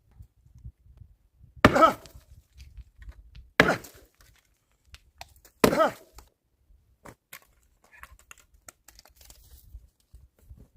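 An axe chopping firewood: three heavy strikes about two seconds apart, each with a short ring, followed by faint small knocks and clicks.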